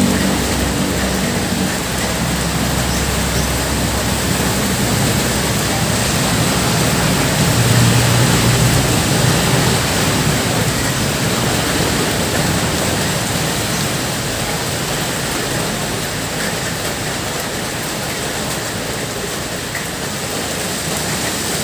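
Heavy rain pouring down steadily, an even hiss of downpour. A vehicle engine fades out at the very start.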